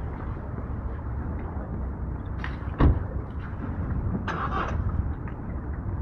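Strong wind rumbling and buffeting against the microphone, with a single sharp thump a little under three seconds in and a brief rush of hiss past four seconds.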